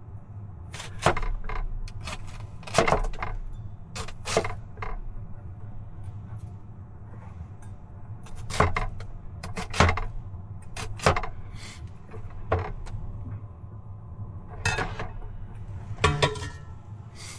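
Kitchen knife chopping an onion on a cutting board: about a dozen sharp knocks at an uneven pace, some in quick pairs, over a steady low hum.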